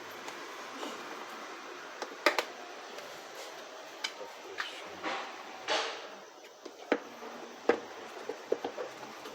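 Scattered clicks and knocks of vacuum cleaner parts being handled as the motor and its rubber seal are seated in the housing, with a short scrape about six seconds in and a quick run of small clicks near the end.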